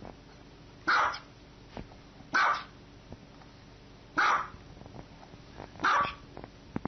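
Small white dog barking: four short barks, evenly spaced about a second and a half apart.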